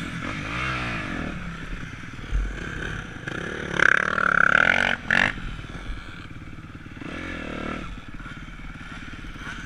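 Motocross dirt bike engine running on the track, its pitch rising and falling as the throttle is worked, loudest about four to five seconds in with a high whine.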